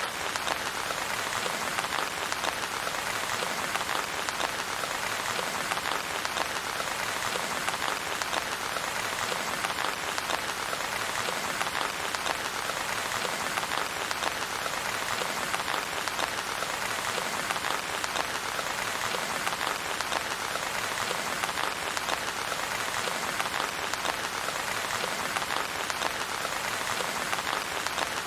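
Steady rain falling, a dense, even patter of drops that doesn't change, with no thunder.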